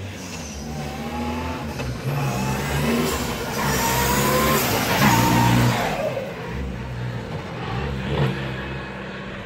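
Fiat Punto 1.9 JTD four-cylinder turbodiesel running and being revved several times, each rev rising and falling in pitch, loudest around the middle. The engine has just come to life in the car being built.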